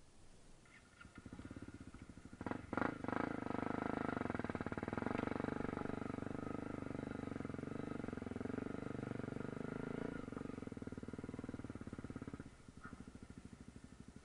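Honda CRF250L's single-cylinder engine pulling the bike up a dirt trail under throttle. It picks up about a second in, with a few clunks near three seconds, runs steadily, then drops back to a low idle near the end as the bike stops.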